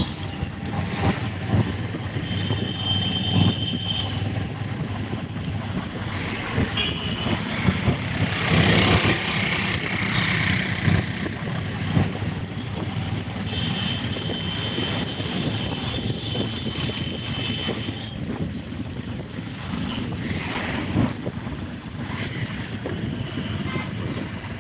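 Wind buffeting the microphone in gusts, with a thin, steady high tone heard twice, briefly and then for several seconds.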